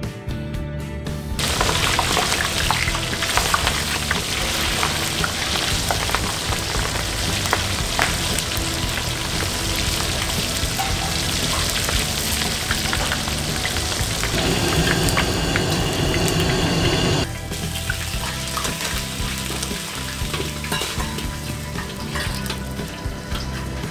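Food frying in hot oil in a wok: a steady, dense sizzle of shrimp deep-frying. In the last several seconds it turns to egg stir-fried in the wok, with a metal ladle clicking and scraping against the wok, over faint background music.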